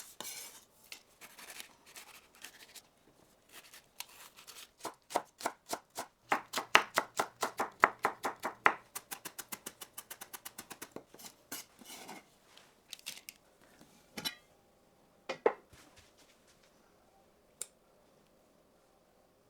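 Knife chopping food on a cutting board: a few scattered cuts, then a fast, even run of strokes in the middle, around seven a second, then a few single knocks before it goes quiet.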